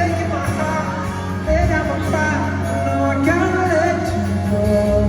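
Live pop band performance: a sung vocal melody with held, gliding notes over a steady bass and band accompaniment.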